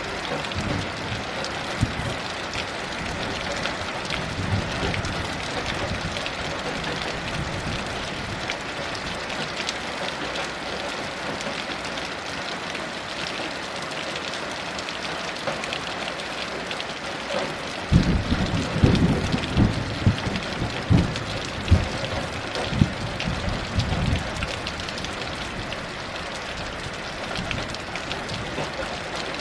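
Heavy rain falling steadily. Partway through, a roll of thunder comes in as a series of low rumbling, crackling surges for about six seconds, then fades back under the rain.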